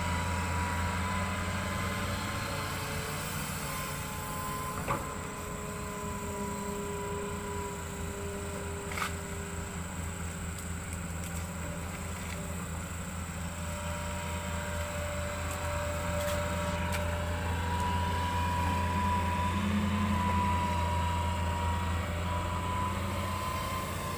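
Hitachi excavator's diesel engine running steadily with a low hum and a faint high whine, and two sharp clicks about five and nine seconds in.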